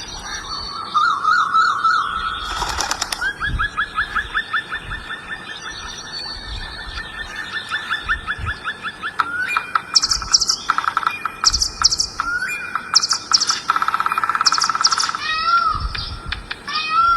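Birds calling: a long fast trill of repeated notes, then bursts of rapid sharp chirps, and swooping whistled notes near the end.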